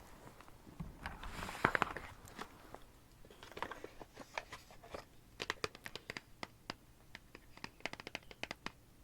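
Close-miked crinkling and crunching about a second in, then a quick, irregular run of small clicks and taps.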